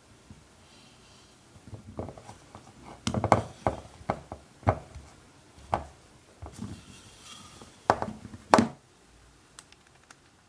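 Irregular knocks and clatters of kitchen work, a couple of sharper thuds among lighter taps, such as utensils and containers being handled on a worktop.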